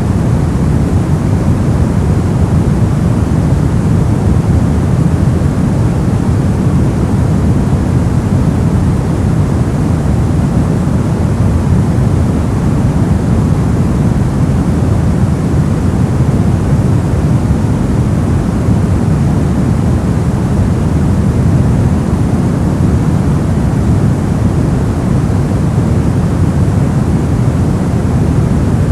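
Steady, unbroken white-noise masking sound, a deep even rush with most of its weight in the low range and only a faint hiss above.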